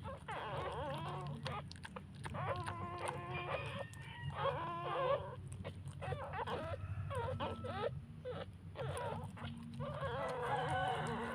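Newborn puppies squeaking and whining in several wavering, high-pitched bouts, over a steady low hum.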